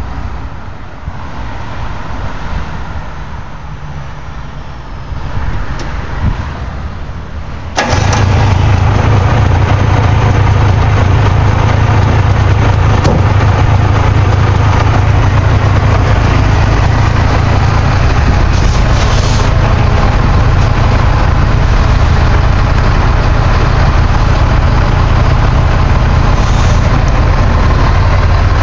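1970 Subaru 360 truck's small air-cooled two-stroke twin engine starting about eight seconds in, then running steadily and loudly at idle. It has just been fitted with a new set of pistons, and its noise level is being checked.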